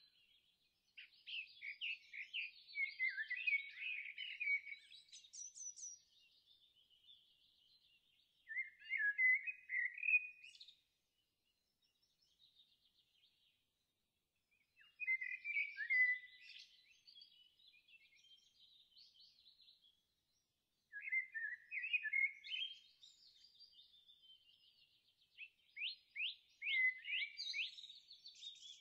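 Songbird song: bursts of rapid chirps and warbled notes, about five phrases separated by pauses of a few seconds.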